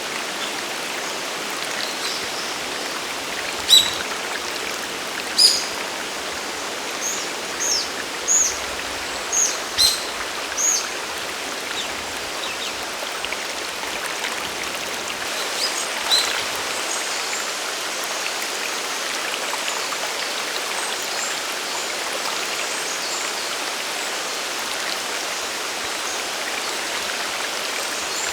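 Steady rushing of a mountain waterfall and stream. A bird calls a quick series of short, high chirps about four to eleven seconds in, then once more near the middle.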